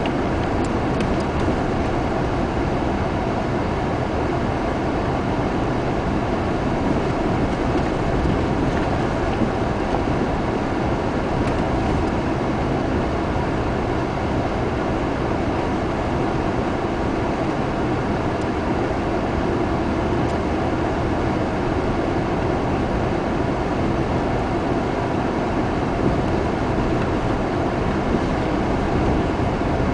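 Steady noise of a car being driven: engine and road noise that holds at an even level throughout, with a few faint ticks.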